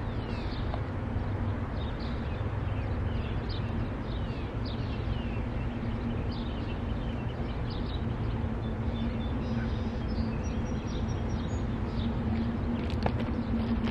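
Small birds chirping repeatedly over a steady low rumble, with a steady hum that grows stronger in the second half.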